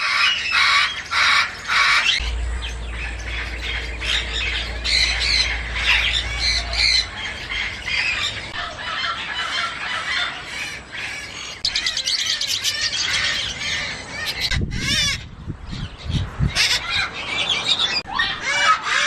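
Parrots squawking and chattering, with many harsh calls overlapping and repeating.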